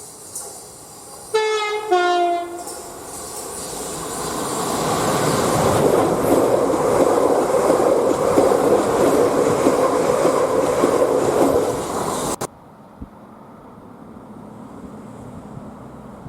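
Passing train sounding a two-note horn, a higher note then a lower one, each about half a second long. The train then runs by at speed, its rumble swelling to a loud, steady roar before the sound cuts off suddenly.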